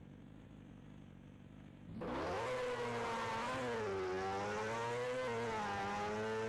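Sport motorcycle engine, a Kawasaki Ninja ZX-10R inline-four: a low running sound, then about two seconds in a much louder engine note rises sharply and is held high, its pitch wavering up and down with the throttle.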